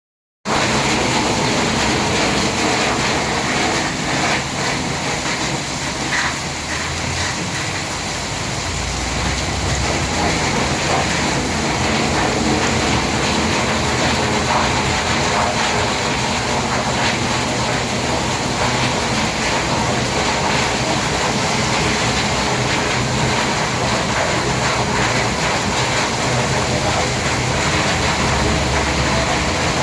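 Heavy rain falling steadily, an even hiss that starts about half a second in.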